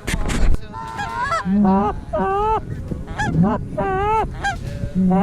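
Canada geese honking in a rapid series of about six calls, each a short, pitch-breaking honk, after a loud rush of noise at the very start.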